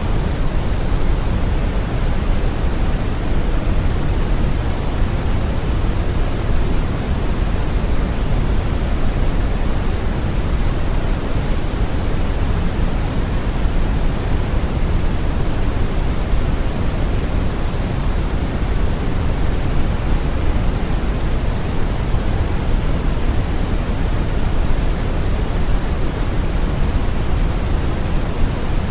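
Brown noise: a steady, deep rumbling hiss, strongest in the bass and tapering off towards the treble, with no change over time.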